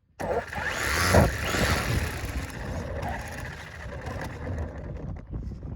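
Radio-controlled car running and driving, its motor and wheels making a rough, noisy sound that starts abruptly from silence and is loudest about a second in.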